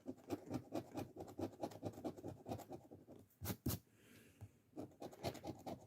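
Scratch-off lottery ticket being scratched in quick, repeated short strokes, with a brief lull a little past halfway.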